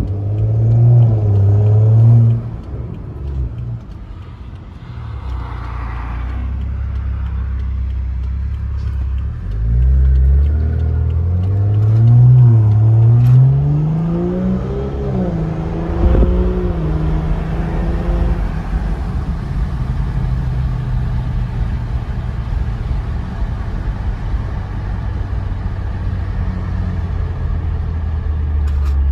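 Straight-piped BMW F10 exhaust heard from inside the car while driving. The engine is pulling at high revs and lets off about two seconds in. Around ten seconds in it accelerates hard, its pitch climbing through a gear change, then it settles into a steady cruise drone with road and wind noise.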